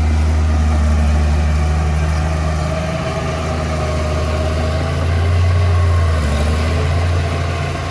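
Diesel engine of heavy earthmoving machinery running with a steady, deep drone that grows louder for about a second around five seconds in.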